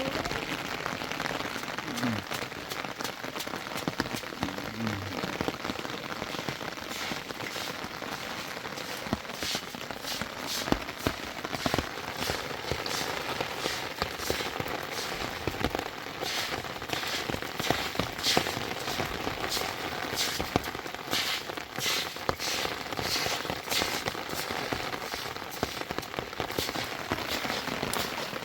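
Steady rain falling, with individual drops striking close by as irregular sharp taps, coming more often through the second half.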